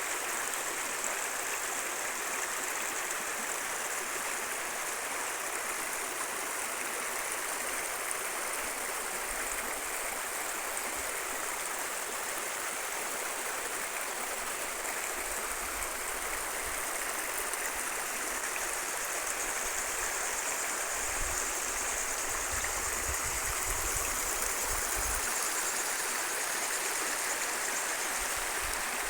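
Stream running steadily, an even rush of flowing water, with a few low rumbles about a third of the way in and again past the middle.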